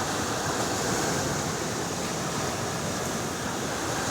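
Rough sea: a steady rush of waves and surf, with strong wind.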